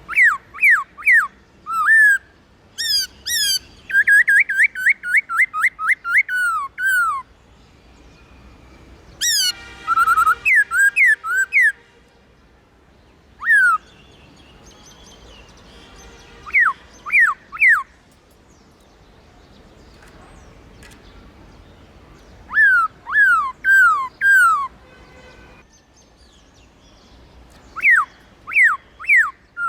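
Black-throated laughingthrush singing: loud phrases of clear whistled notes, each sliding sharply down in pitch, some delivered in quick runs of a dozen or so notes, with pauses of a few seconds between phrases.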